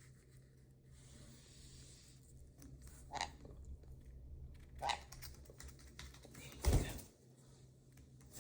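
Faint small clicks and taps from a pet conure moving about and pecking, with two short sharp sounds about three and five seconds in and a louder bump just before the end.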